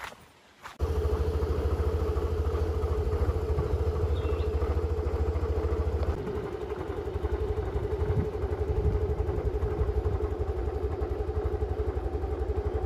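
An engine starts abruptly about a second in and then idles steadily with a low, even pulse.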